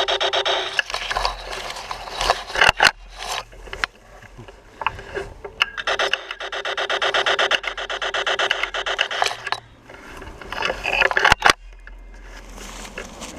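Laser tag blasters firing in long bursts of rapid, evenly spaced rasping pulses, about ten a second, with a few sharp clicks in between.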